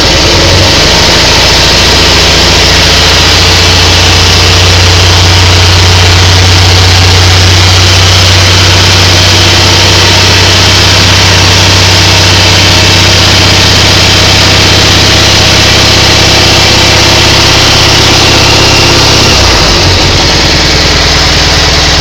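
Kohler M18 opposed-twin engine of a Cub Cadet 1811 garden tractor running steadily shortly after a cold start, with its note shifting slightly about half a second in and again near the end. It runs pretty good.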